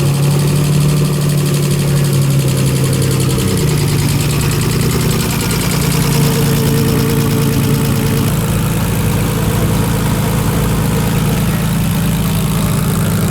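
Nissan RB25 turbocharged straight-six idling just after being started, the idle steady apart from small drops in pitch twice as it settles.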